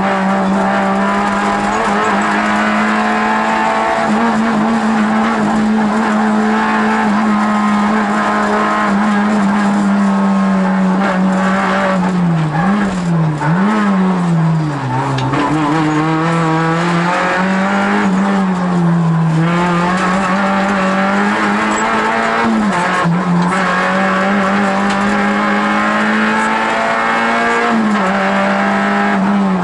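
Rally car engine held at high revs at full throttle, heard from inside the cockpit. Its pitch dips and climbs back several times as the driver lifts off, most deeply about halfway through.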